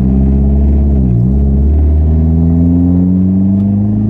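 Dodge SRT-4's turbocharged 2.4-litre four-cylinder engine pulling the car under light throttle. Its pitch dips briefly about a second in, then climbs slowly and steadily, not yet into boost.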